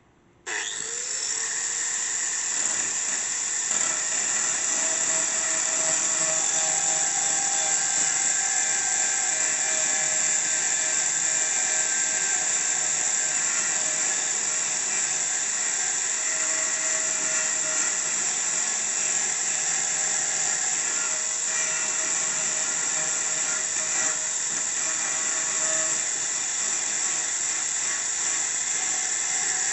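A grinder starts up about half a second in and runs steadily with a high whine, sharpening a steel mower blade.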